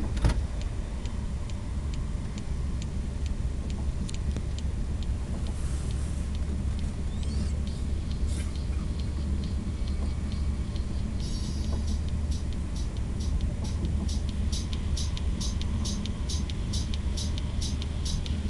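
Steady low rumble of a Thalys high-speed train heard from inside the passenger carriage while running at speed. A regular light ticking, about two to three a second, becomes sharper and more distinct from about halfway through.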